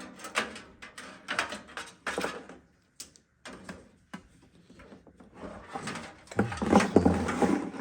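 Handling noise from computer parts and cables being worked by hand: scattered clicks and short rustles, then a louder stretch of scraping and rattling in the last second and a half.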